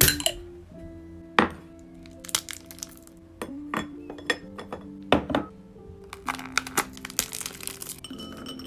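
Background music with a steady melody, over scattered sharp clicks and clinks of glassware and small items being handled; the loudest strikes come about a second and a half in and about five seconds in, with a run of quick clicks near the end.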